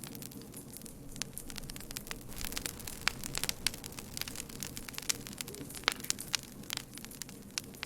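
Campfire crackling: many sharp, irregular pops and snaps from burning wood, thickest in the middle, over a low steady rumble of the flames.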